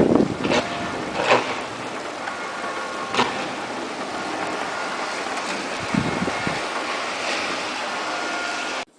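Thunderstorm: a steady hiss of heavy rain, broken by a few sharp cracks of nearby thunder and a short low rumble about six seconds in. The sound cuts off abruptly just before the end.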